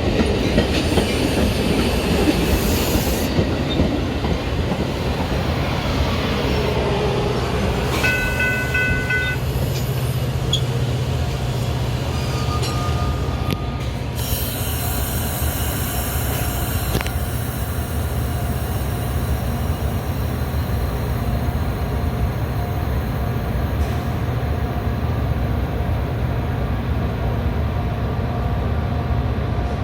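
A Metra commuter train running on the rails: a steady rumble of wheels on track, with a brief pitched tone about eight seconds in and a thin, steady squeal through the second half.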